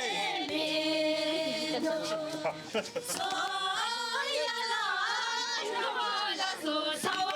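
Several voices singing together without instruments, their pitches overlapping and gliding.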